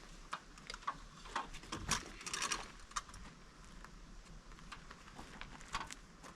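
Scattered light knocks and clicks, with a short, louder rustling clatter about two seconds in.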